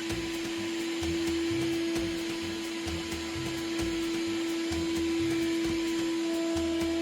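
Shop vac running steadily with a constant motor whine, its hose held to an open water-line fitting to suck out the water left in the pipe; the hose is too big to seal on the opening.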